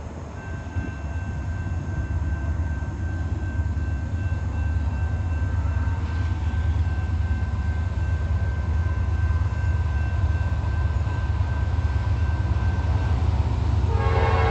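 An approaching freight train's diesel locomotives: a low rumble that grows steadily louder as they near, with a faint steady high whine over it. Near the end the lead locomotive's horn starts to blow.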